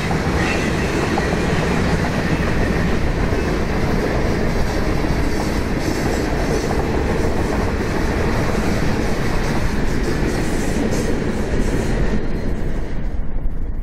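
Freight train of tank cars rolling past over a short concrete bridge, a steady dense rail noise. Near the end the train noise drops away as the last car clears, leaving gusty wind on the microphone.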